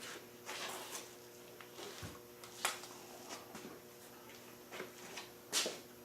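Scattered light clicks, taps and rustles of small objects being handled, with the two sharpest clicks about two and a half seconds in and near the end, over a faint steady electrical hum.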